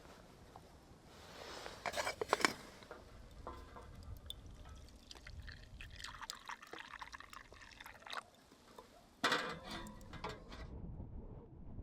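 Liquid being poured into a container, with several short clinks and knocks of handling.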